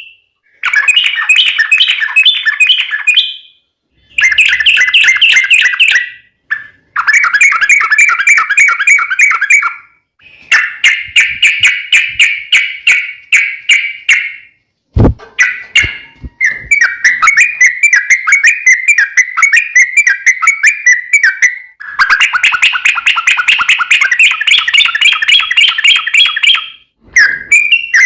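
Yellow-vented bulbul (trucukan) singing long 'ropel' song: fast rolling trains of bubbly notes in bursts of a few seconds each, separated by brief pauses. A single sharp click about halfway through.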